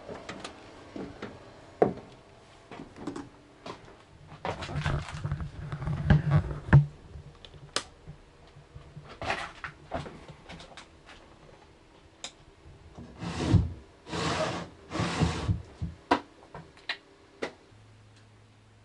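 Handling noise as cabinet parts are worked on: scattered clicks and knocks, with longer rubbing or scraping stretches about five seconds in and again near fourteen seconds.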